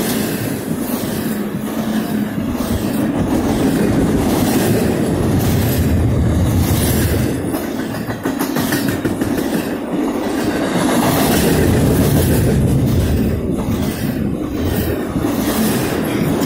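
Double-stack intermodal well cars of a freight train rolling past at close range: a steady rumble of steel wheels on rail with repeated clicks as the wheels pass over rail joints.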